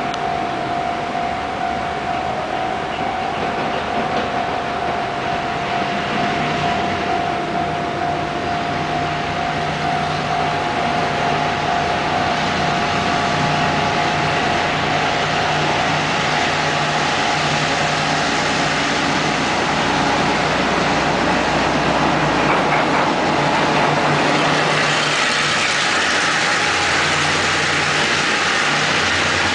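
Diesel-electric freight locomotive, an R20-class, running as it approaches, its engine steadily growing louder. A steady high tone sounds for roughly the first ten seconds, then fades.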